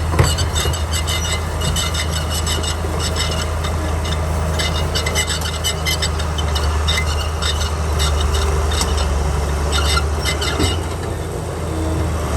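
Komatsu D41P crawler bulldozer working: its diesel engine runs with a steady low drone while the steel tracks keep up a rapid clanking and squeaking.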